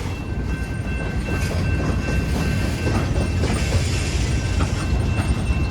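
Freight train's cars rolling slowly past, a steady low rumble with light clicking of wheels over the rail joints.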